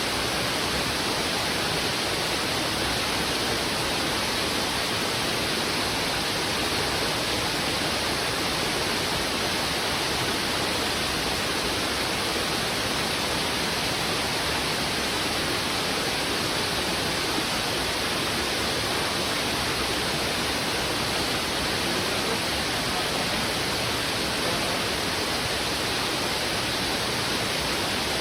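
Fast-flowing river rushing over rocks, a steady, dense hiss of water with no breaks.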